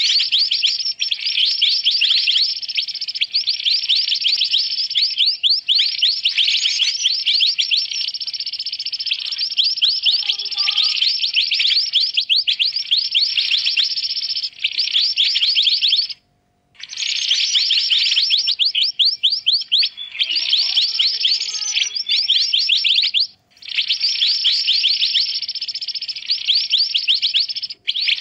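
Looped recording of a mantenan bird's calls, played as a trapping lure: a dense, rapid, high chattering trill that runs on almost without pause, breaking off briefly about 16 and 23 seconds in.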